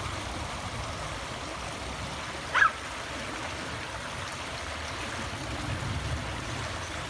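Flowing stream water, a steady rushing, with one brief high-pitched squeak about two and a half seconds in.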